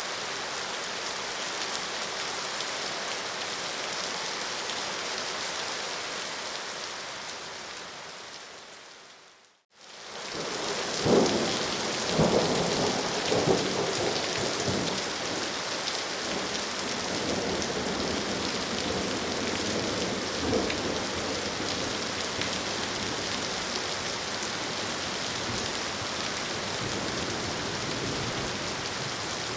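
Steady heavy rain falling, fading away to a brief silence about a third of the way in. It fades back up with several rolls of thunder, then settles into steady rain again.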